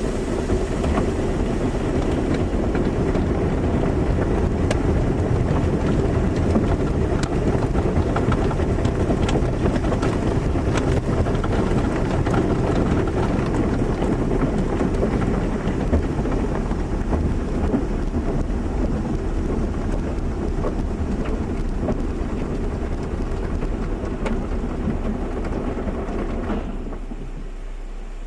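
Automatic car wash running: a steady rush of water spray and machinery, heavy in the low end with a fine crackle. Near the end the rush drops away, leaving a lower steady hum.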